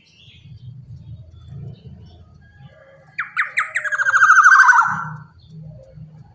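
Black-naped oriole (kepodang) giving one harsh, rasping squawk about two seconds long, with its pitch sliding downward, about halfway in.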